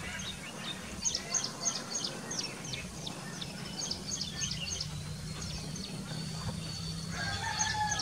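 Birds calling: a quick run of short high chirps, about three a second, then a long thin high note, and near the end a drawn-out lower call, over a steady low hum.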